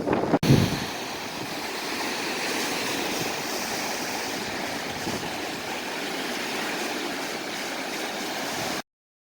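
Strong wind: a loud gust buffets the microphone at the start, then a steady rushing noise with no clear rhythm, which cuts off abruptly near the end.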